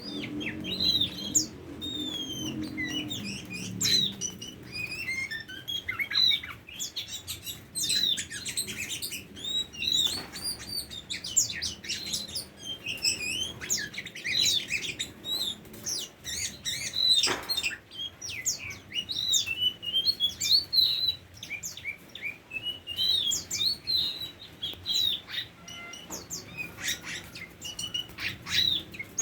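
Oriental magpie-robin (kacer) singing a long, varied song of quick whistles, chirps and short trills with almost no pause.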